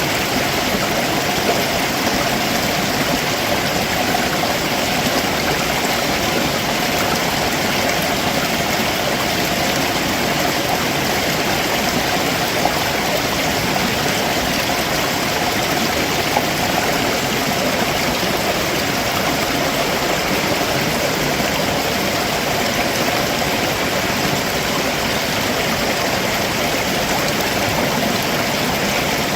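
Stream water running over rocks below a waterfall: a steady, unbroken rush.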